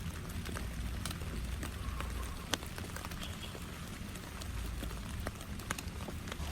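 Rain falling steadily, with many separate drops striking a surface in irregular clicks over a low, continuous rumble.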